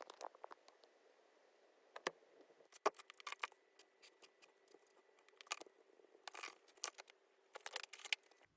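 Irregular clusters of small clicks and scrapes, as of small objects being handled, over a faint steady hum.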